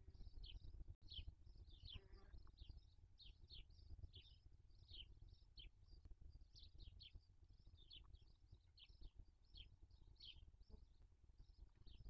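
Small birds chirping faintly: a steady run of short high chirps, each dropping in pitch, about three a second, over a low rumble.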